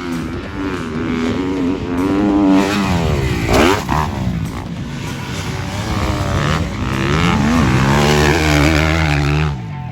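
Motocross dirt bike engine revving up and down with the throttle, its pitch dropping sharply and climbing again about three and a half seconds in, then holding high before it cuts back near the end.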